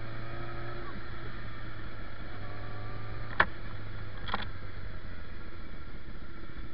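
Motorcycle engine running with a steady low hum, its note rising into view twice, once at the start and once just before halfway. Two sharp clicks come close together near the middle.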